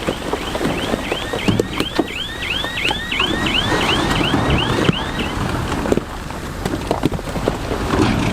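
Bulldozer working stone: diesel engine rumble with scattered knocks and clatter, and from about half a second in until about five seconds a rhythmic metallic squeal repeating about three times a second, typical of crawler tracks squeaking as they roll.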